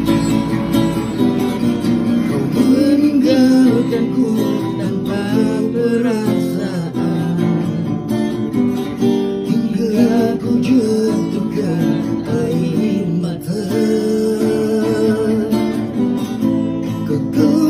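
A male street singer singing a slow pop ballad in a wavering voice, accompanied by a strummed acoustic guitar.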